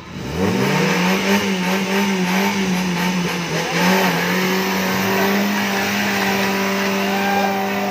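Off-road 4x4's engine revving up sharply, then held at high revs for several seconds, working hard as the vehicle tries to climb a steep muddy bank.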